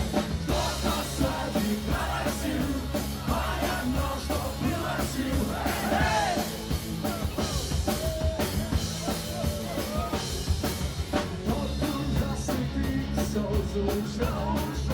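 Live punk rock band playing an instrumental passage: drum kit, electric guitars and bass.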